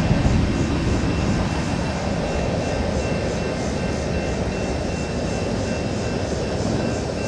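A train passing with a steady, even rumble, and two faint thin high tones running through it.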